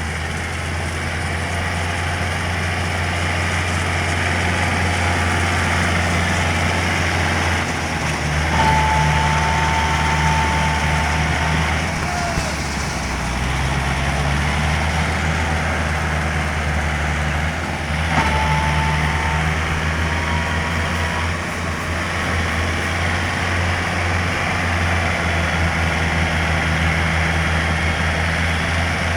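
Kubota MU4501 tractor's four-cylinder diesel engine running steadily while the tractor works stuck in mud, its engine note shifting a few times. A high steady tone sounds twice, about 8 seconds in and about 18 seconds in.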